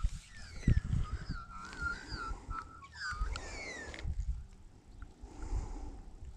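Birds singing, several warbling and gliding whistled notes overlapping, which stop about four seconds in. Under them, irregular low knocks and rumble of hands handling a fish close to the microphone.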